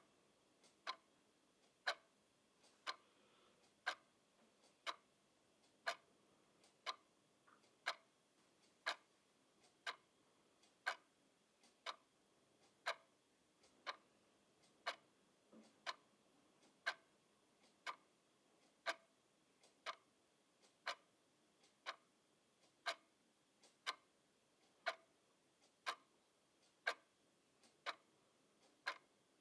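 Clock ticking steadily, about one sharp tick per second, with fainter clicks in between.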